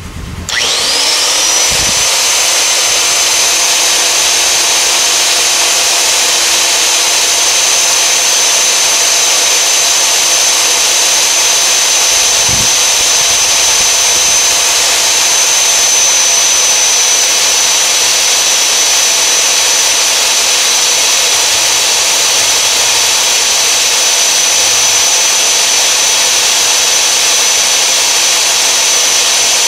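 Magnetic-base drill press motor spinning up with a quick rising whine about half a second in, then running at a steady high whine while drilling a hole through a steel truck frame rail.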